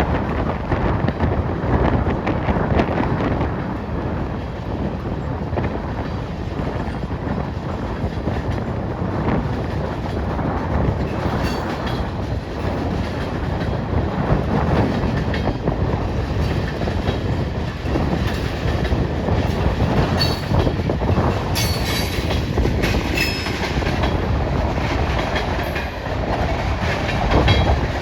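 Freight cars of a long manifest train rolling past: a steady rumble with the clickety-clack of wheels over the rail joints. A few short, high squeaks come through in the middle stretch.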